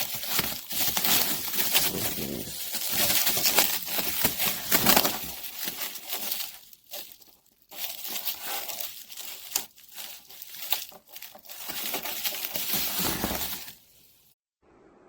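Packaging being handled: irregular crinkling and rustling with small knocks, stopping abruptly near the end.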